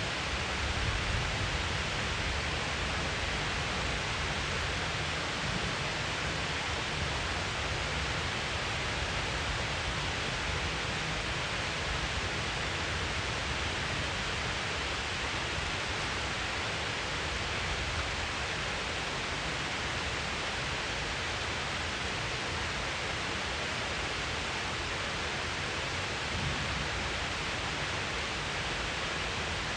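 Steady heavy rain, an even hiss with a low rumble underneath that does not change.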